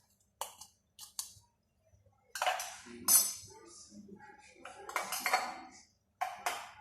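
Kitchen utensils and containers clinking and clattering against a bowl as spices are added to chicken for a marinade: a few light clicks, then several louder clatters.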